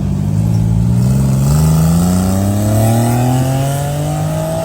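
A car engine pulling hard under acceleration, its pitch rising steadily in one continuous climb.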